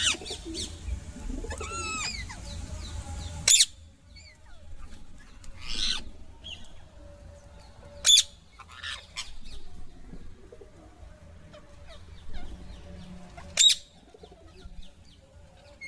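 A parrot calling: a few arcing calls, then short, sharp, high-pitched screeches spaced several seconds apart.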